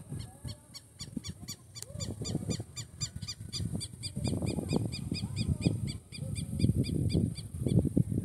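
A bird calling in a fast, even series of short high notes, about three or four a second, over an irregular low gusty rumble.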